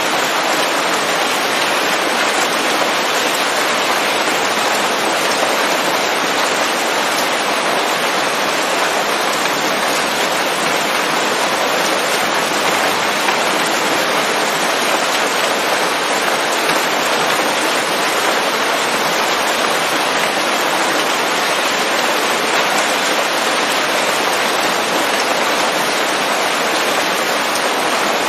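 Steady rain falling on leaves in a forest, a dense, even hiss of drops with no thunder and no separate drips standing out.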